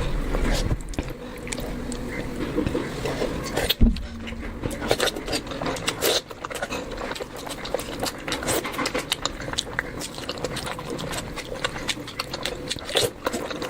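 Close-up chewing and mouth sounds of someone eating rice and curry: a dense run of wet smacks and clicks, with one sharper knock about four seconds in.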